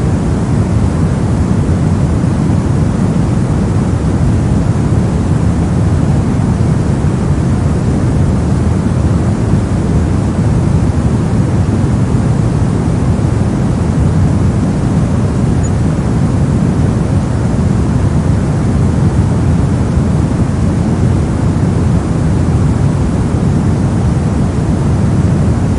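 Steady soft noise played for sleep and focus: an even, unchanging wash with most of its weight in the deep end and only a faint hiss above.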